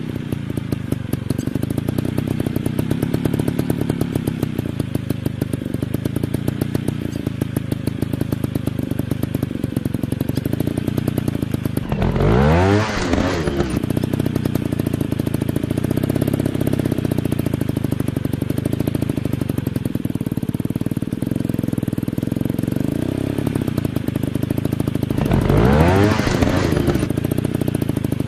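Dirt bike engines running, with a fast popping exhaust. Twice, about twelve seconds in and again near the end, a bike passes close by, getting louder as its pitch swings up and then drops away.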